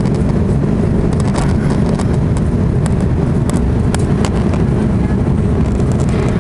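Cabin noise of an Airbus A340-600 during takeoff: its four Rolls-Royce Trent 500 engines and the airflow make a loud, steady, deep rumble. A few light clicks and rattles from the cabin sound over it.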